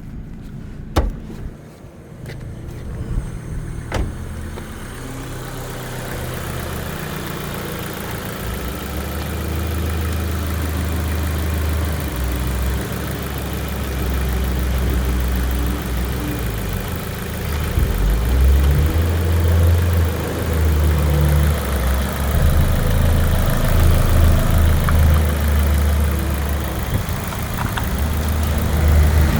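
Ford Focus 1.6 petrol inline-four engine (HWDA) running at idle, a steady low hum, with a few sharp clicks in the first few seconds.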